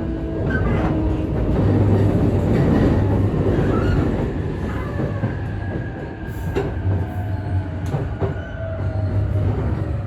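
E531 series electric train running and slowing for its stop: a steady rumble of wheels on track with a falling motor whine as it brakes, and a few sharp knocks over rail joints and points.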